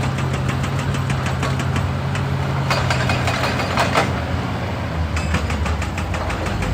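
Hitachi EX200 excavator running with its hydraulic breaker hammering rock in a rapid, even train of blows over the steady diesel engine note.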